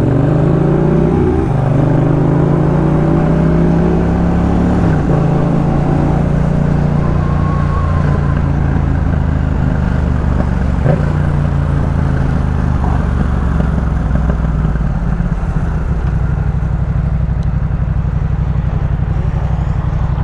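Yamaha MT-07's 689 cc parallel-twin engine running through a Jeskap K4 full aftermarket exhaust while riding. The revs rise in the first second or two and hold, fall about five seconds in, then settle to a lower, steady beat for the last few seconds.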